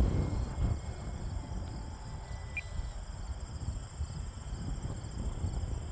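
Strong gusting wind buffeting the microphone, an uneven low rumble that rises and falls, with a steady high-pitched tone running faintly above it.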